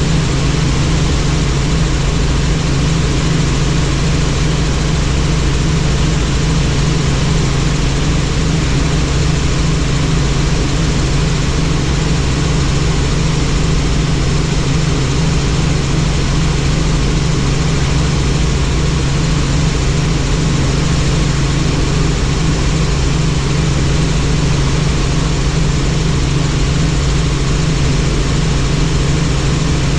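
Helicopter in steady flight: a loud, constant drone of engine and rotor with a fast low pulsing beat from the rotor blades, unchanging throughout.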